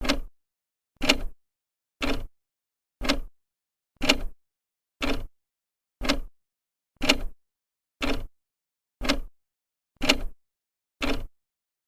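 Old clock's second hand ticking steadily once a second, with louder and softer ticks alternating in a tick-tock rhythm.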